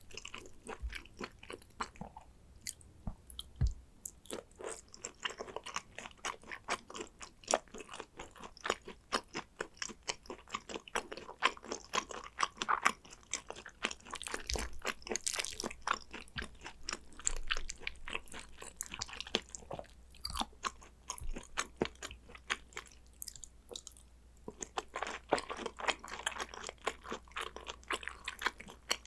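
Close-up eating sounds of a person chewing Korean raw beef tartare (Hanwoo yukhoe): a dense run of small wet mouth clicks and smacks, easing off briefly twice.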